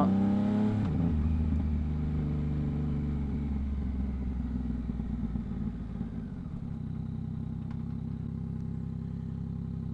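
2022 Yamaha MT-09's three-cylinder engine through a Two Brothers exhaust, its revs dropping off as the bike slows, then settling to a steady idle about six seconds in.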